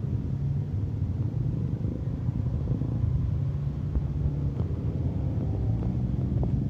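Steady low rumble of a diesel train in motion, with a few faint clicks in the second half.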